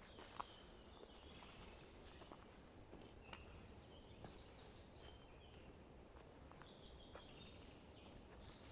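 Faint forest ambience with distant birdsong: thin, high song phrases, including a run of falling notes in the middle. A sharp click about half a second in.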